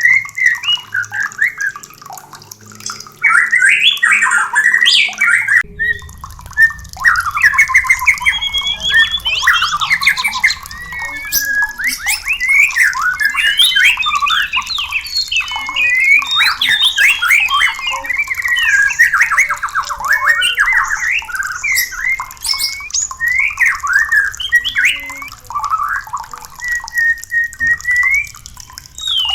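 White-rumped shama (murai batu) singing a rapid, nearly unbroken stream of varied whistled phrases full of quick rising and falling notes.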